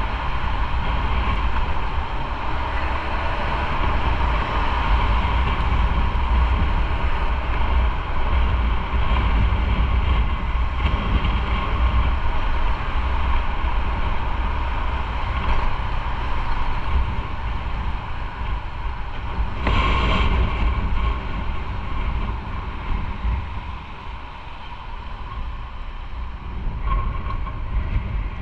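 Motorcycle on the move: steady wind rush on the microphone over engine and road noise, with a brief louder burst about two-thirds through and a slight easing after it.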